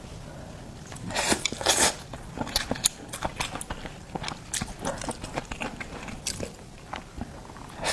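Close-miked eating of seafood: biting and chewing with crunching and sharp clicks, louder for a moment about a second in.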